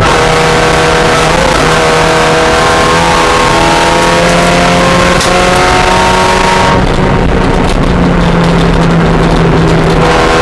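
Spec Miata race car engine at full throttle, its pitch climbing steadily through a gear. About seven seconds in, the engine note drops out, leaving a loud rushing noise, and it picks up again near the end.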